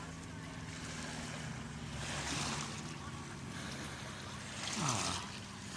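Small waves washing onto the shore, swelling twice, over a low steady engine drone from an aircraft passing in the distance. The drone's pitch falls about five seconds in.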